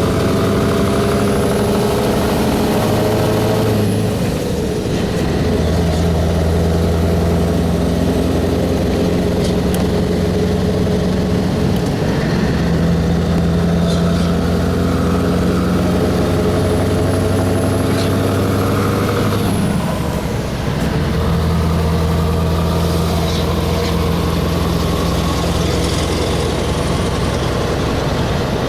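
Scania 4-series truck's V8 engine running under steady load, its note breaking off and picking up again about 4 seconds in and again about 20 seconds in, as at gear changes. A faint high whistle rises and falls with the engine twice.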